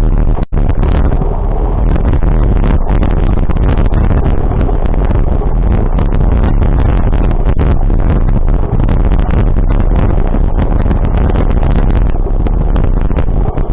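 Loud, steady rumbling noise of a vehicle on the move, heavy in the low end like wind buffeting the microphone, with a brief cut-out about half a second in.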